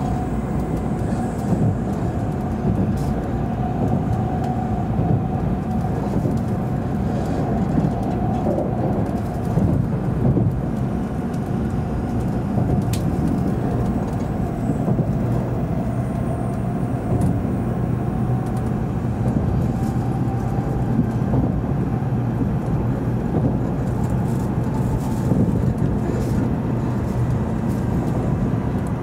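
Cabin noise inside an N700 series Shinkansen car running out of the station at low speed: a steady low rumble of the running gear, with a faint wavering whine that fades out about two-thirds of the way through.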